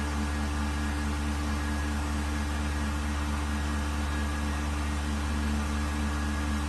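Vacuum pump of a 1600-litre mixer running steadily while drawing the sealed mixing chamber down to vacuum: a constant low hum with a faint regular pulse.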